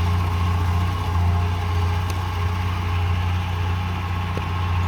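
Heavy earthmoving machine's diesel engine running steadily at low revs, a constant deep hum.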